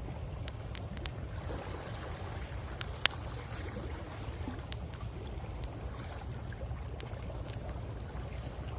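Campfire crackling, with scattered sharp pops and one loud snap about three seconds in, over a steady low rush of sea waves on the shore.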